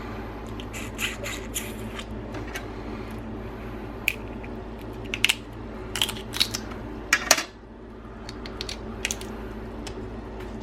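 Boiled crab shells being cracked and picked apart by hand: a scattering of sharp cracks and clicks, bunched in the middle and once more near the end, over a steady background hum.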